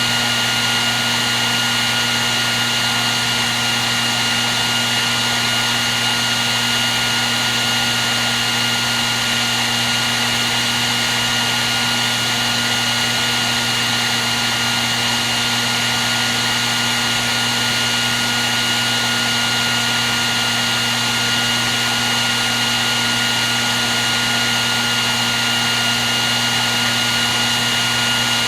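Hair dryer running steadily: a constant rush of blown air with a low motor hum and a thin high whine, unchanging throughout.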